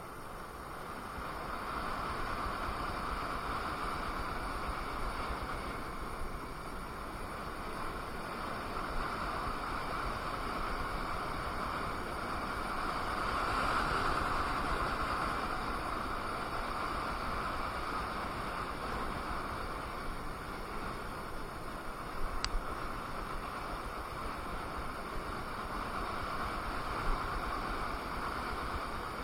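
KingSong KS18S electric unicycle riding along, its wheel giving a steady hum under wind rushing over the microphone, swelling a little about halfway through, with one sharp click near the end.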